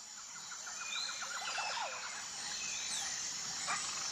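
Bird calls over a steady high insect drone: a fast trill in the first second or so, then scattered short chirps and sweeps.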